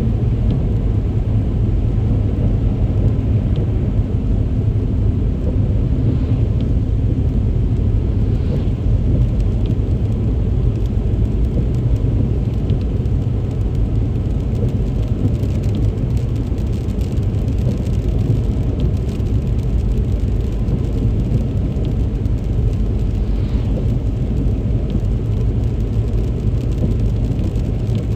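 Car driving on a wet road in heavy rain: a steady low rumble of engine and tyres with a hiss of rain, and scattered faint ticks of drops.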